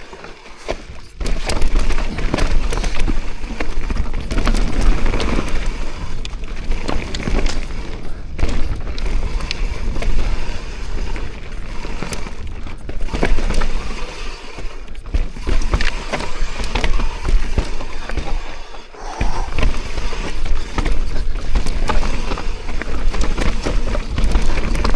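Mountain bike riding over roots and rocks on a rough trail: tyres rolling and the bike clattering with many irregular sharp knocks over a steady low rumble. It is quieter at the start and briefly again about three-quarters through.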